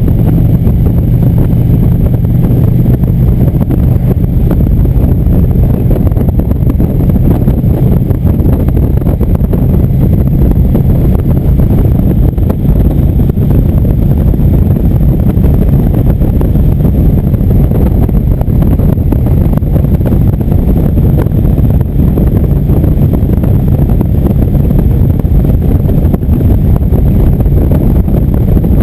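Indian motorcycle engine running at a steady cruise on the road, with wind rushing over the microphone.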